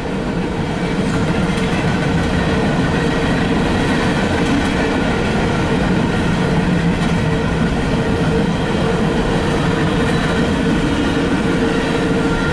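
Cars of an empty coal train rolling past close by: a steady, loud rumble and rattle of wheels on rail, with a steady tone running through it.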